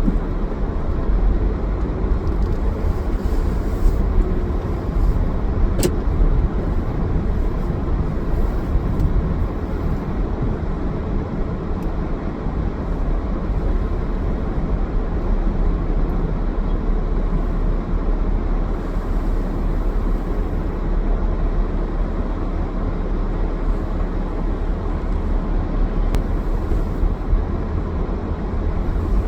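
A car being driven: a steady low rumble of engine and road noise, with a brief click about six seconds in.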